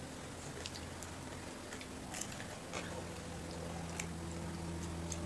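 Sporadic small crunches and clicks of ice cream cones being bitten and chewed, over a low steady hum.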